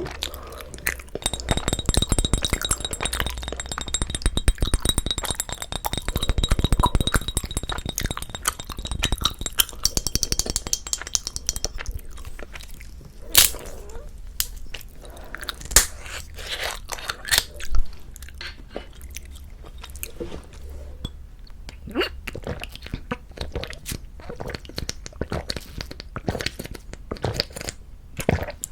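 Close-miked chewing of soft, chewy rice cake (tteok), with many small sticky mouth clicks and smacks. A faint steady high tone runs underneath from about a second in until about twelve seconds.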